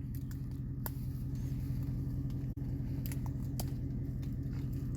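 2008 Ford F-150's 5.4-litre three-valve V8 idling steadily, with a few light clicks over it.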